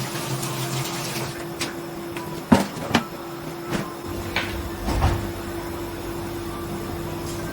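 Kitchen handling sounds: a handful of knocks and clicks, like cupboard doors and utensils, loudest about two and a half seconds in, over a steady low hum.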